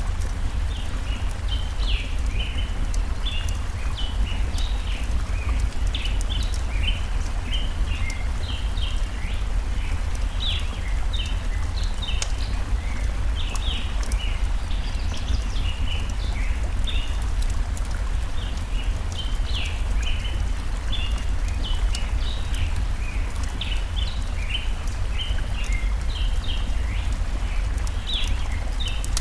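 Layered forest ambience: birds chirping constantly in short high calls over a steady low rushing of stream water, with scattered small crackles of a wood fire.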